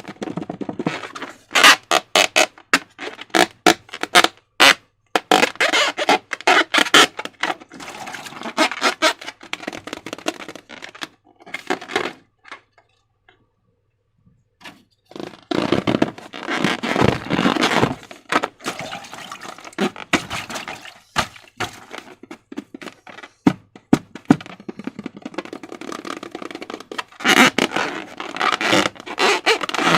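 Slime and rubber balloons being worked by hand: sticky squelching and stretching with rapid clicks and crackles, pausing for a couple of seconds about halfway through.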